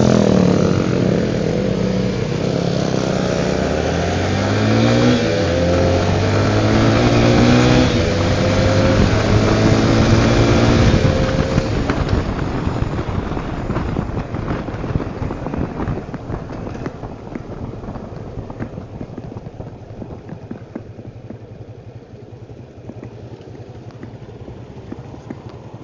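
Tornado 250 motorcycle's single-cylinder engine pulling hard through the gears: its pitch climbs several times, dropping at each shift. After about twelve seconds the throttle eases off and the engine sound falls away to a lower, quieter run.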